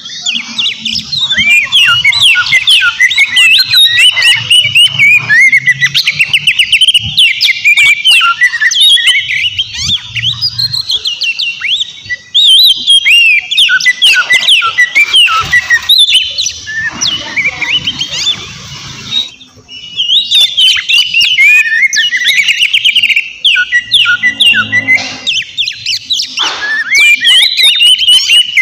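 Oriental magpie-robin singing: a fast, nearly unbroken run of loud chirps, sweeping whistles and trills, with a short pause about two-thirds of the way through.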